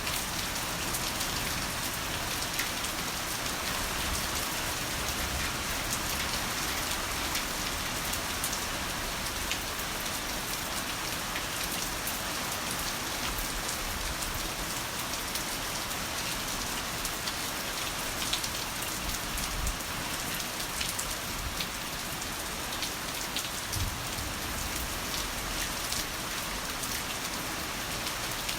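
Heavy rain falling steadily: a dense, even hiss with many sharp taps of single drops scattered through it.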